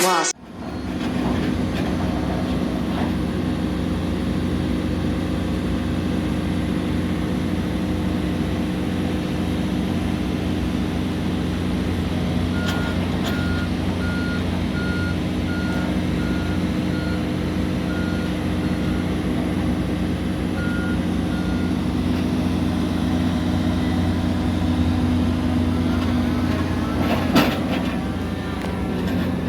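Heavy construction machine's diesel engine running steadily. Through the middle a reversing alarm beeps about once a second, a dozen times with a short break, and a single clank sounds near the end.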